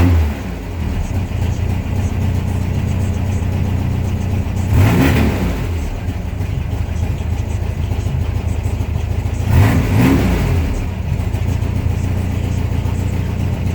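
1972 VW Beetle's air-cooled flat-four engine idling warmed up, its choke opened, and revved briefly three times: once at the start, then about five and about ten seconds in, each rev rising and falling back to idle.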